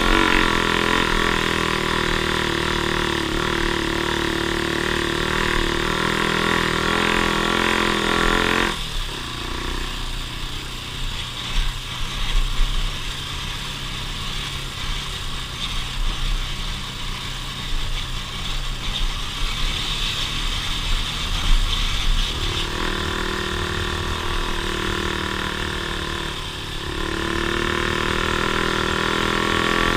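An off-road vehicle's engine running at a steady speed, easing off about nine seconds in to a low rumble with a few knocks, then picking up again about three-quarters of the way through.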